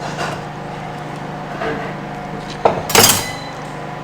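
Kitchen dishes and utensils knocking and clinking. The loudest is a sharp glassy clink about three seconds in, just after a knock, over a steady low hum.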